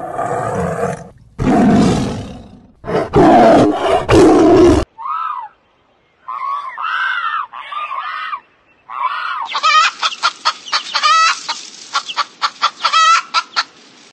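Animal calls one after another: several loud, harsh, deep calls over the first five seconds, then chickens clucking, first in separate calls and then in a fast run of short clucks.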